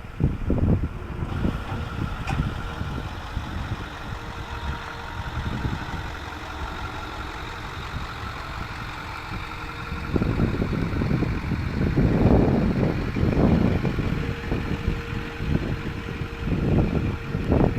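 Ford F-550 Super Duty truck engine running steadily at idle, with a faint steady whine and louder rumbling stretches about ten seconds in and again near the end.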